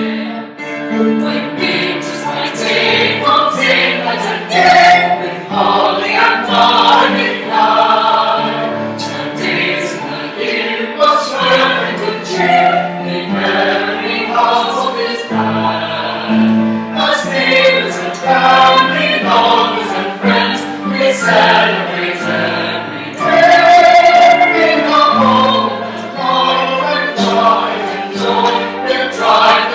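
A choir singing a carol, several voices holding notes together.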